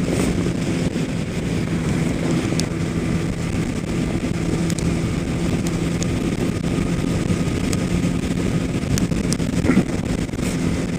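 Kawasaki ZX-10R sport bike's engine running at a steady freeway cruise, with wind rushing over the microphone.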